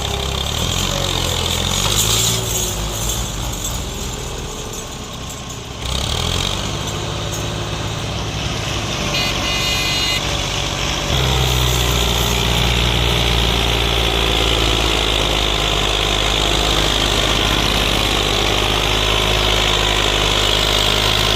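Massey Ferguson 240 tractor's three-cylinder diesel engine working hard under a heavily loaded sugarcane trolley. It eases off a few seconds in, picks up again, and from about halfway runs louder and steady.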